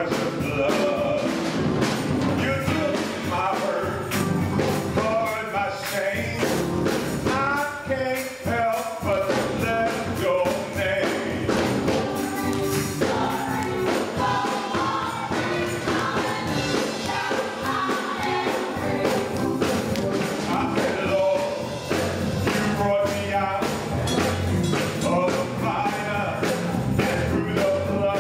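Gospel choir singing with a full band, tambourine and drums keeping a steady beat.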